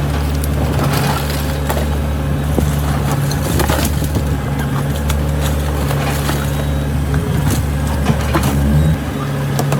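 Heavy diesel earthmoving machine running steadily under load, with frequent crackling and crunching from soil and debris being pushed.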